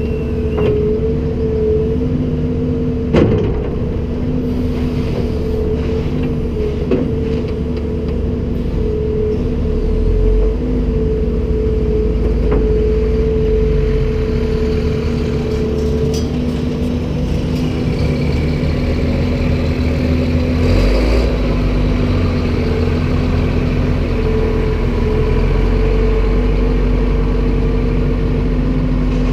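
Komatsu PC290-10 excavator running with its diesel engine working steadily, a constant low drone with a steady hum, and a few sharp knocks, the loudest about three seconds in.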